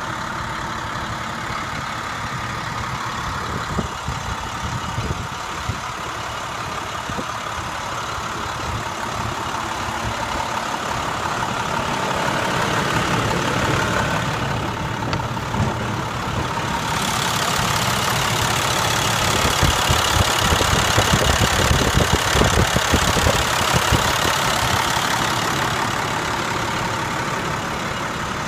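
2006 International 4300 dump truck's DT466 inline-six diesel engine running at idle. It grows louder toward the middle, is loudest in the last third and eases off near the end.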